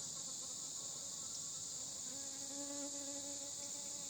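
A steady, high-pitched chorus of insects droning without a break. A low, steady buzzing hum joins about two seconds in.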